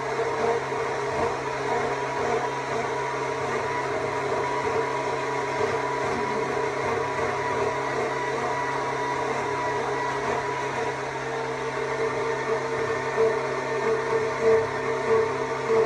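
Stihl MSA 200 C battery chainsaw running steadily with an even electric-motor whine while carving wood, swelling in level a few times near the end.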